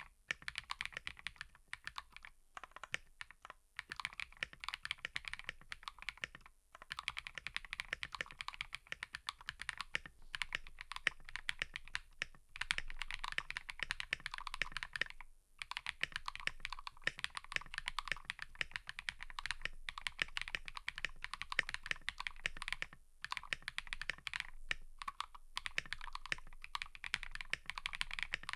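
Mechanical keyboard being typed on in quick, steady runs of key clicks, broken by a few short pauses.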